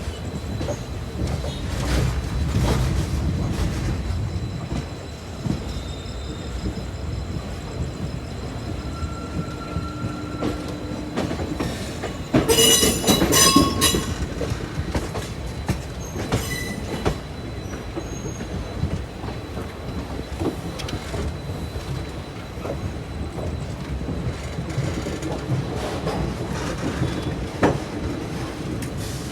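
Passenger train running on the track, with a steady rumble and scattered clicks from the wheels and rail joints. About halfway through there is a brief loud, high-pitched wheel squeal.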